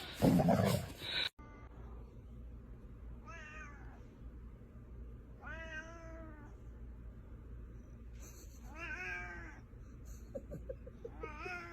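A cat meowing four times, each meow long and drawn out, roughly every two and a half seconds. Before the first meow, a louder mixed sound cuts off abruptly about a second in.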